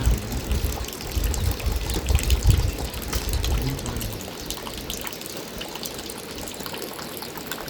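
Water running and splashing steadily, with a low rumble over the first four seconds or so.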